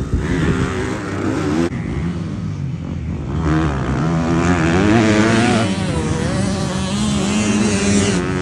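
Motocross dirt bike engine running and revving, its pitch rising and falling as the throttle is worked, with an abrupt change in the sound about two seconds in.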